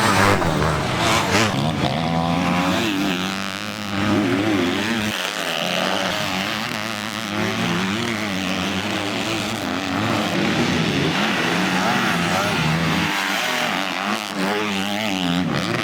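Motocross bike engines revving hard, the pitch climbing and dropping again and again as the bikes accelerate, shift and back off.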